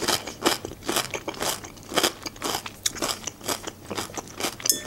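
Close-miked chewing of a crunchy raw green vegetable, a crisp crunch about twice a second.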